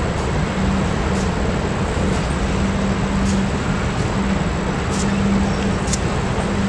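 Train rolling past on the track: a steady rumble of wheels on rail, a low hum that drops out and comes back, and faint clicks about once a second.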